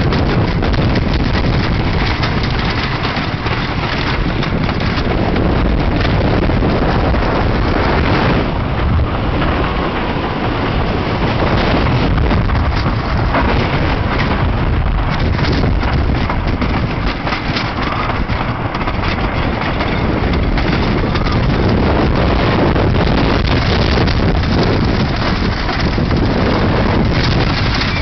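Dania Beach Hurricane wooden roller coaster train running along its track: a loud, continuous rumble and rattle with wind buffeting the microphone.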